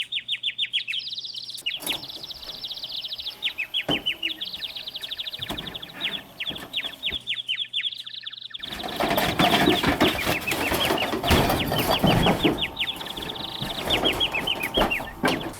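A bird calling in long, fast runs of short, high chirps, each sliding down in pitch, several a second. About nine seconds in, a loud rushing noise joins the calls.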